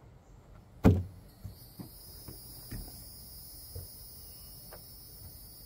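Plastic deck-box parts being handled during unboxing: one sharp knock about a second in, then several lighter knocks and clicks.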